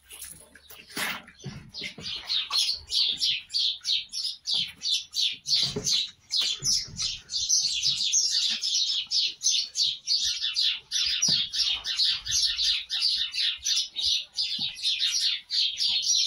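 Bird chirping: a rapid, even run of short high chirps, several a second, that starts about a second and a half in and keeps on throughout. There are a couple of low knocks early on and around the middle.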